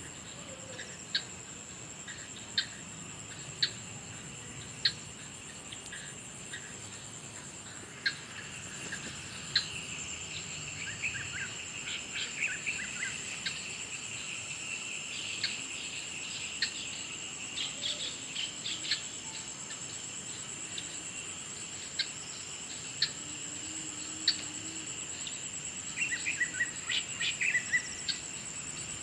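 Insect chorus: a steady, high, pulsing trill with a second lower insect band under it. Sharp single chirps repeat about every second and a quarter at first, and a quick flurry of bird-like chirps comes near the end.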